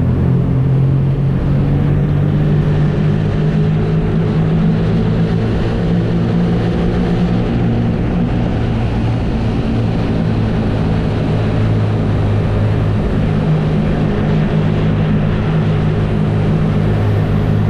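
BMW R nineT's air/oil-cooled boxer twin running steadily under way, holding a fairly even pitch, with a slight shift in engine note in the first couple of seconds.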